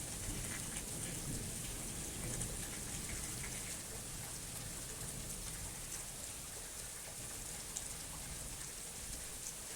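Steady rain falling, with scattered faint drop ticks, and a low rumble dying away over the first few seconds.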